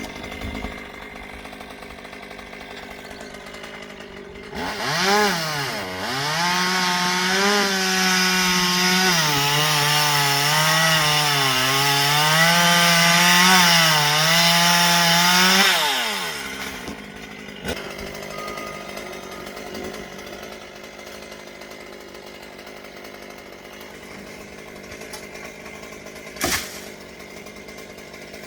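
Two-stroke chainsaw idling, then revved to full throttle for about ten seconds, its pitch sagging and wavering as it cuts through wood, then dropping back to idle. A single sharp knock near the end.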